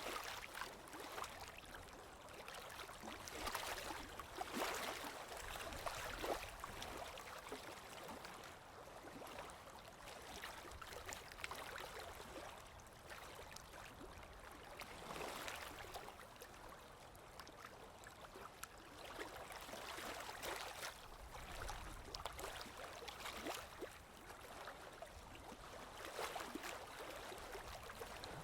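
Sea waves washing in and drawing back, a faint rushing hiss that swells and fades every few seconds.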